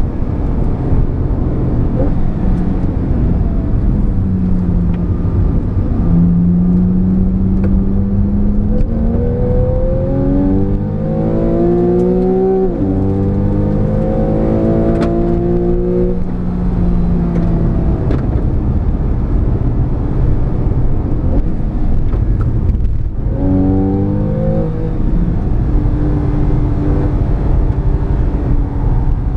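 Porsche 911 Carrera S (991) 3.8-litre flat-six engine driven hard on track. Its pitch repeatedly climbs under acceleration and drops at gear changes, with a brief cut about 23 seconds in, over steady tyre and wind noise.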